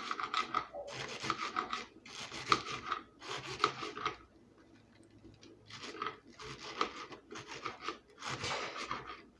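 Kitchen knife slicing through a head of lettuce: a run of rasping cutting strokes, each about a second long, with a pause of about a second and a half near the middle.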